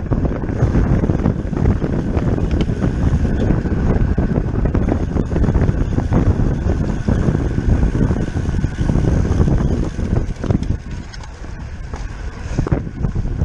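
Wind buffeting the microphone of a camera on a road bike being ridden fast in a race, a steady gusty rush that eases for a moment near the end.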